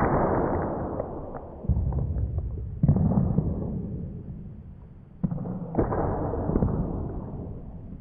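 A series of heavy sword-slash and impact sounds, about five in all, each hitting suddenly and fading away over a second or so, with a deep rumble under them.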